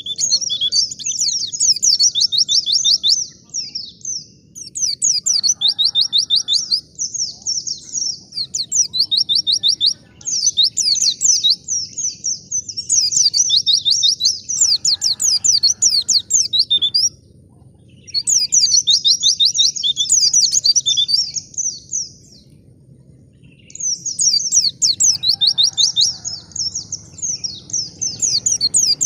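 White-eye (pleci) singing in long, rapid, high-pitched twittering phrases several seconds long, broken by short pauses of about a second.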